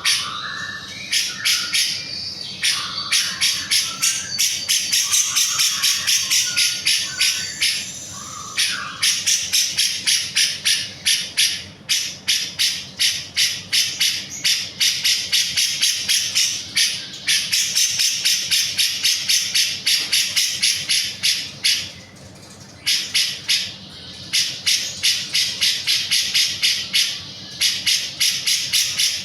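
Cucak jenggot (grey-cheeked bulbul) singing in full song: long runs of rapid, evenly repeated sharp high notes broken by short pauses. A lower chattering call sits under the notes for the first several seconds.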